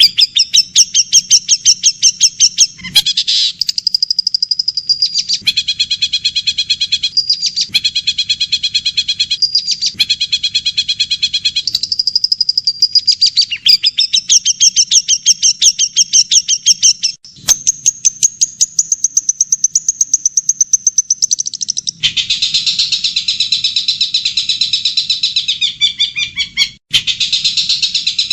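Recorded songbird song in a bird-training compilation: rapid, high trills and chattering phrases that change pattern every few seconds. The recording cuts abruptly from one clip to another about 17 seconds in and again near the end.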